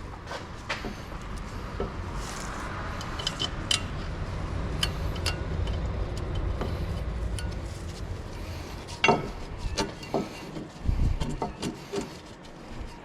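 Metal tools and brake parts clinking and knocking during front disc rotor work on a car, with a cluster of louder knocks about nine seconds in, over a low rumble that fades out partway through.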